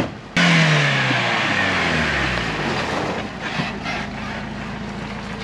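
1995 Jeep Wrangler's engine coming off the throttle as the Jeep slows, its pitch falling steadily over about two seconds and then settling into a steady idle; the sound starts abruptly.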